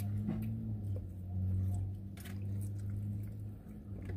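Close-up chewing and wet mouth sounds of people eating barbecue chicken wings, with scattered small clicks, over a steady low hum.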